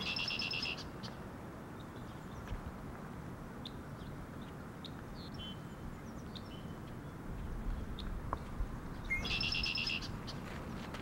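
Songbirds singing: a short, fast trill right at the start and the same trill again about nine seconds later, with scattered short chirps in between, over steady low background noise.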